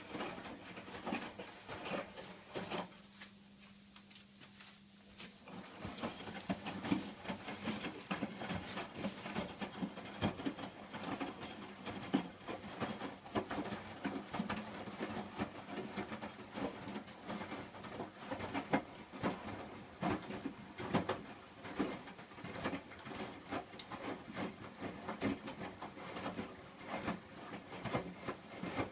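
Hotpoint washing machine in its wash phase, the drum turning the wet laundry: irregular sloshing and soft knocks over a low steady hum. About three seconds in, it goes quieter for a couple of seconds before the tumbling starts again.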